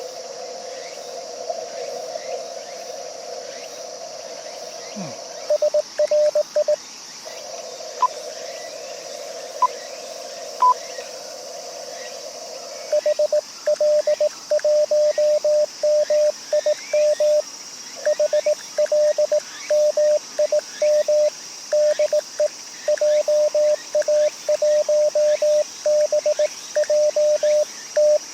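Morse code (CW) from an amateur radio transceiver: a single tone of about 600 Hz keyed in dots and dashes, briefly about six seconds in and then continuously from about halfway through. Between the keying, the receiver's narrow CW filter passes a steady hiss, which drops out while the tone is keyed, as when the set mutes its receiver during the operator's own sending. A steady high insect chorus runs underneath.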